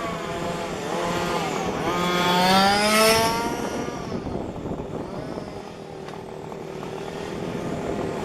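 Small two-stroke petrol engines of 1:5-scale RC race cars running and revving. One grows louder with rising revs to a peak about three seconds in, then the engine sound drops back to a quieter, more distant running.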